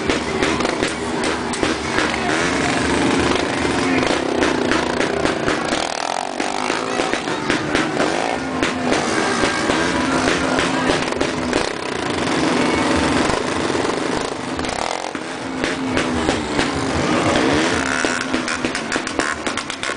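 Motorcycle engines running, with people's voices mixed in.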